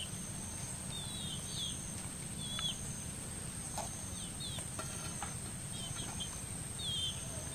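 Outdoor tropical ambience: short two-note chirps of a small bird repeating about once a second over a steady high-pitched insect drone and a low rumble.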